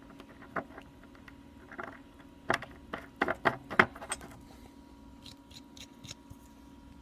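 Handling noise of a new sterilizer bellows being screwed onto its fitting by hand: scattered small clicks and knocks of the parts, the loudest few about two and a half to four seconds in, then a few faint ticks.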